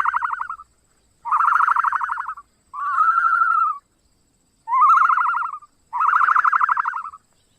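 Ostrich calling: five buzzy, rattling calls of about a second each, at a steady mid pitch, with short pauses between them.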